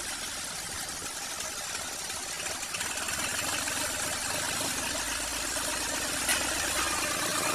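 John Deere 5310 tractor's three-cylinder diesel engine running steadily while hauling a trolley, with one sharp knock near the end.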